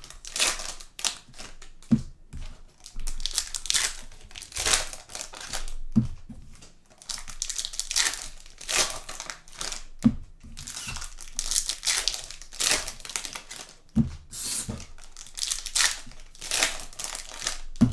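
Plastic trading-card pack wrappers being torn open and crinkled in quick repeated bursts, with a low thump about every four seconds.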